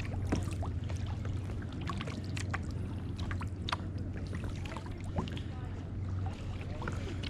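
Kayak paddling: irregular small splashes and drips of water from the paddle blades, over a steady low hum.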